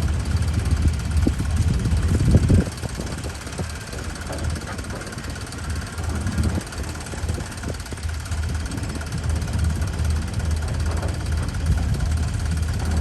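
An engine idling with a steady low pulse. The first couple of seconds are louder and noisier, then it settles to an even run.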